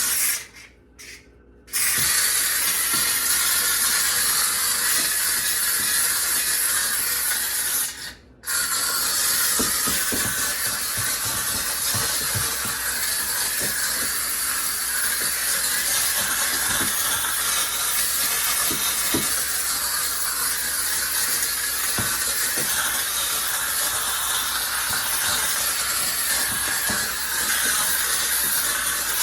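McCulloch steam cleaner jetting a steady hiss of pressurised steam, with the jet cutting off briefly twice just after the start and once about 8 seconds in. Faint small knocks of the nozzle working against the fridge's surfaces underneath.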